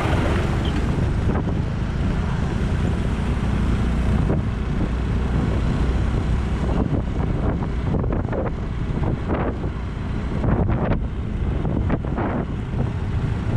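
Wind rushing over a moving action camera's microphone, over a steady low vehicle rumble, with short buffeting gusts in the second half.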